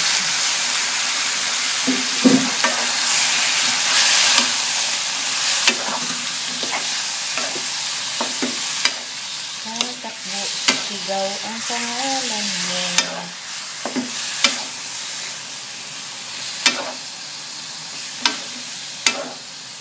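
Raw pork slices sizzling in hot oil in a metal wok while a wooden spatula stirs them, knocking and scraping against the pan every few seconds. The sizzle slowly fades.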